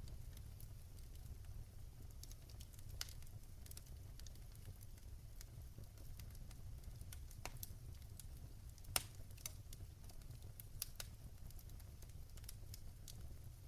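Wood fire crackling in a fireplace: scattered sharp snaps and pops over a low, steady rumble, with the loudest pop about nine seconds in.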